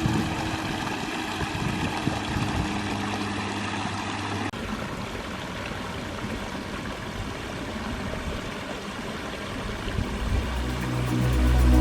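Water from a limestone pondless waterfall running and splashing as a steady rushing noise, with a low hum under it in the first few seconds. The sound changes abruptly about four and a half seconds in, and electronic music fades in near the end.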